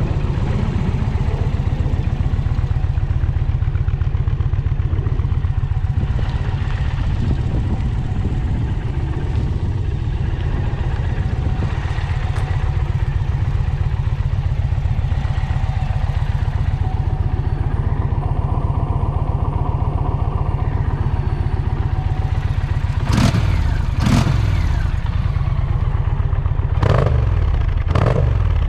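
2023 Indian Challenger Dark Horse's liquid-cooled PowerPlus V-twin idling steadily, then blipped four times near the end, in two pairs of quick revs that rise and fall back to idle.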